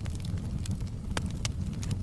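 Wood fire burning in a fireplace: a steady low rumble of flame with sharp, irregular crackles and pops from the burning logs, about five in two seconds.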